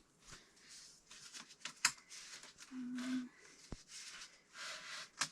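Wooden tongue-and-groove boards being handled and carried: scattered light knocks and clicks with rustling, and a short low squeak about three seconds in.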